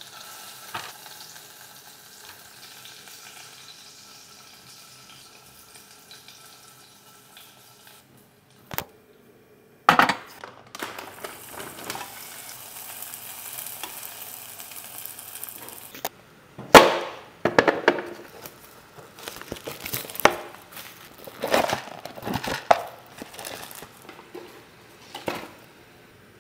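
Hot oil sizzling in a frying pan as dried fish (tuyo) fries and is stirred, the hiss loudest around the middle. In the latter half, a run of loud sharp clacks and pops.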